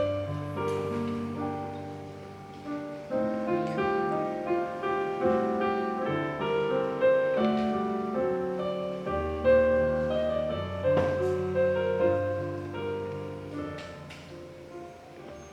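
Piano playing slow, held chords under a melody, with the sound dying away over the last couple of seconds.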